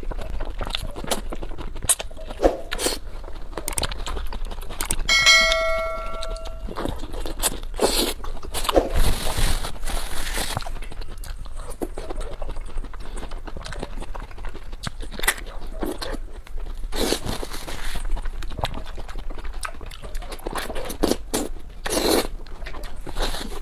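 Clicks, crunches and rustling of food being handled and eaten, with a single bell-like ding lasting about a second and a half, about five seconds in.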